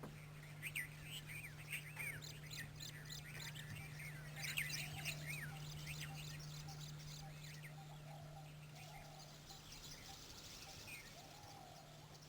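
Wild birds chirping: a quick run of short, arching high calls, busiest in the first half, then a few softer, lower warbling calls. A steady low hum runs underneath.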